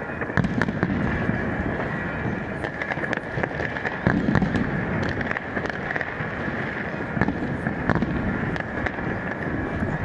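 Fireworks bursting and crackling overhead: many sharp bangs in quick, irregular succession over a steady background din.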